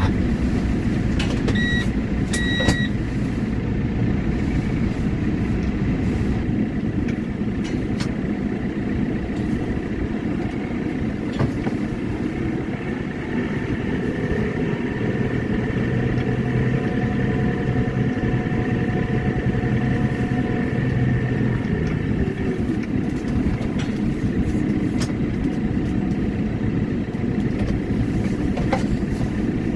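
Claas CX340 tractor engine running steadily. Two short high beeps come about two seconds in, and the engine holds a higher, steadier note for several seconds in the middle.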